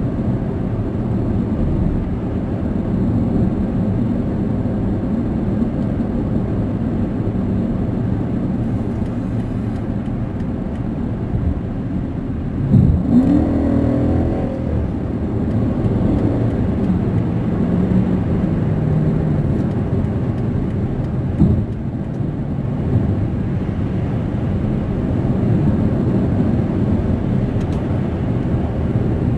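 Steady road and engine noise inside a car cruising at highway speed, with a brief louder pitched sound about halfway through.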